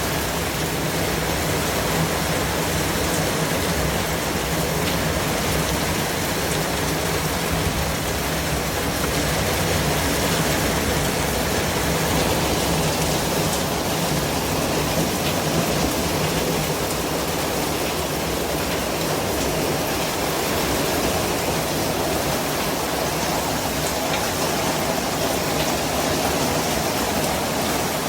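Steady white noise: an even, unbroken hiss spread across low and high pitches alike.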